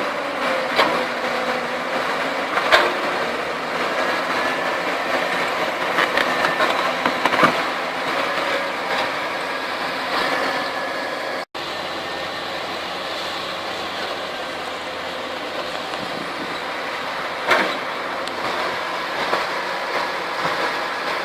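Heavy diesel earthmoving machinery working, an excavator and a crawler bulldozer, as a steady mechanical din with a few sharp metallic clanks.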